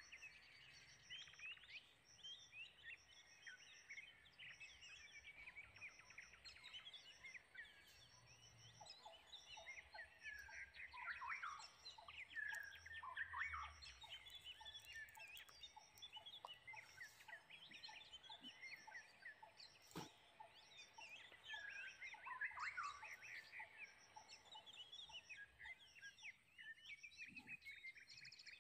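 A faint chorus of wild birds, many short chirps and warbling calls overlapping, with a high, evenly repeated pulsing call running alongside.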